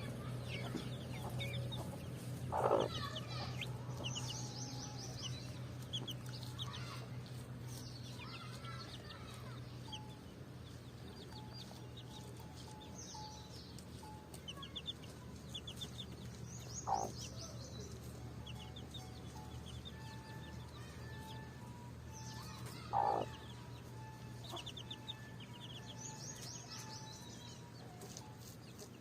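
Mother hen clucking while her chicks peep in quick little series of high chirps; three short, louder hen calls stand out, one near the start, one past the middle and one about four-fifths of the way through.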